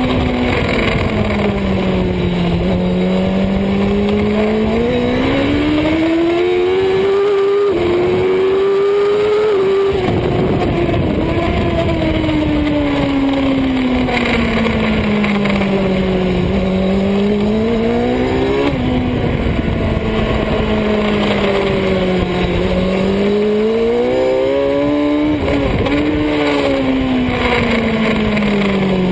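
Superbike engine running hard under load, its pitch climbing and falling over and over as the bike accelerates and slows, with a few sudden pitch drops.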